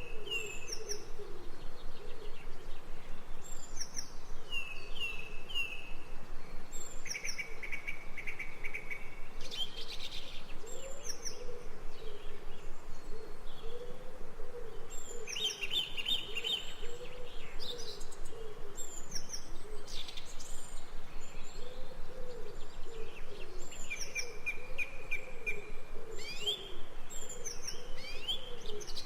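Birdsong: several birds repeating short high chirps and trills, over a lower wavering call that runs throughout.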